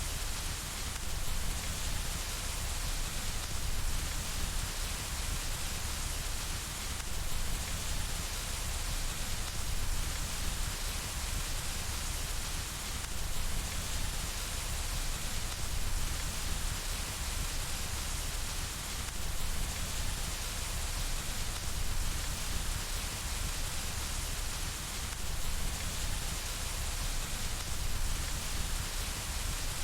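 Steady rain falling on window glass, an even hiss with no letup.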